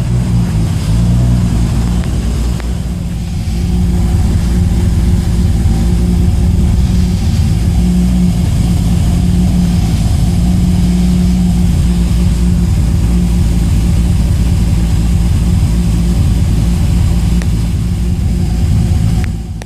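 Toyota 2JZ-GTE turbocharged straight-six running at a steady idle while warming up after a cold start.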